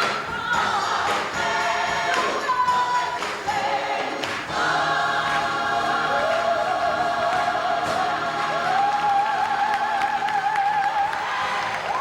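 Gospel choir singing, settling from about four and a half seconds in into a long held chord, with a voice wavering in vibrato above it.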